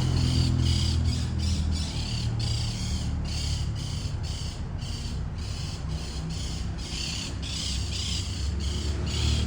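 Birds squawking in a quick run of short calls, about three a second, over a steady low rumble.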